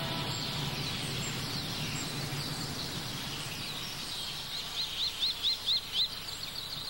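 Woodland ambience: a steady outdoor hiss with faint scattered bird calls, then a bird gives a quick run of six short, high, rising chirps near the end.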